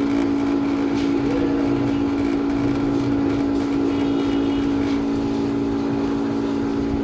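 Steady low-pitched mechanical hum that holds one pitch throughout.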